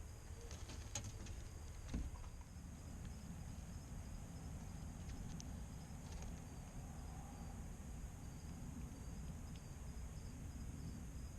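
Steady high chirring of evening insects over a low background rumble, with a few light clicks and a sharper knock about two seconds in.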